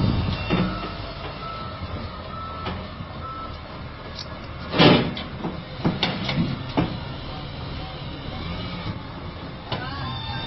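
A dump truck's engine running steadily, with scattered metallic knocks and one loud bang about five seconds in.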